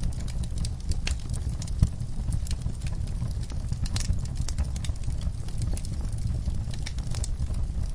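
Wood fire burning in a fireplace: frequent sharp crackles and pops from the logs over a steady low rumble, with one louder pop about two seconds in.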